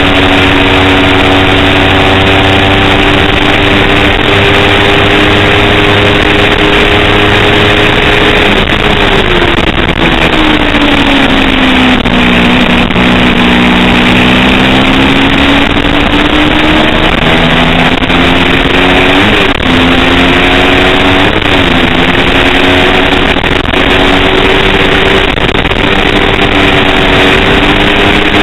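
A 250-class race motorcycle's engine running at high revs under heavy wind rush. About a third of the way in the revs fall and stay low for several seconds, then climb back, with two brief sharp blips later on.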